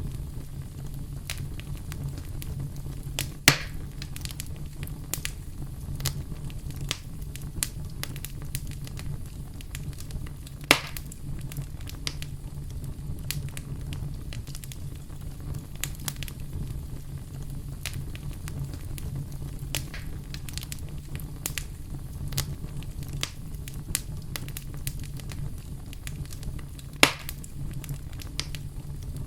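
Campfire crackling, with frequent small snaps and three much louder pops spread through, over a steady low rumble.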